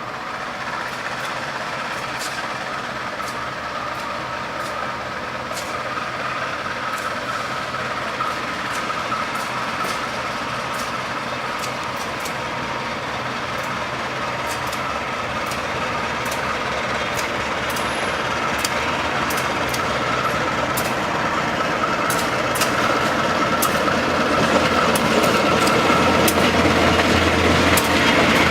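Passenger train running on the rails: a steady rumbling noise that slowly grows louder, with scattered sharp ticks and a faint whine.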